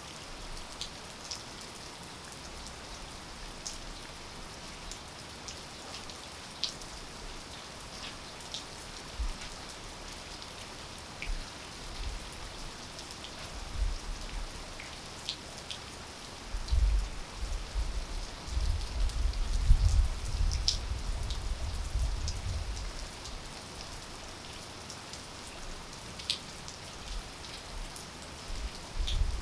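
Steady rain falling, with scattered sharp ticks of single drops landing close by. A choppy low rumble, louder than the rain, comes and goes for several seconds in the middle.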